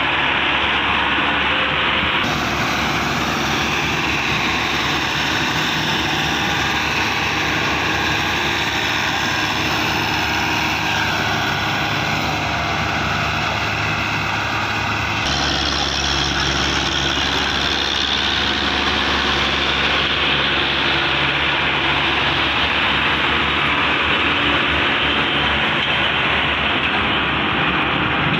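Tractor diesel engine running steadily and loud. The sound changes abruptly about two seconds in and again about halfway through.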